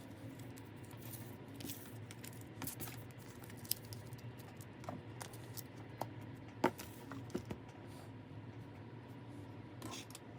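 Small handling noises: scattered light taps, scratches and rustles, with two sharper clicks, over a low steady hum.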